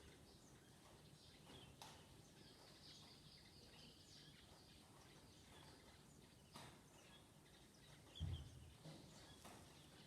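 Near silence: faint background hiss with a few soft clicks and a short dull thump about eight seconds in.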